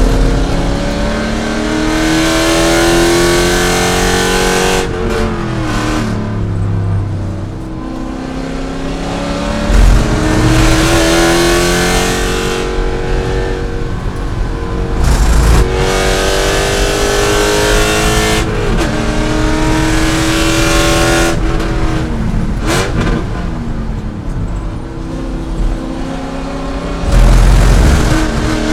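C5 Corvette V8 engine at racing speed, climbing in pitch under hard acceleration and dropping sharply at each gear change or lift, several times over, with a few heavy low rumbles mixed in.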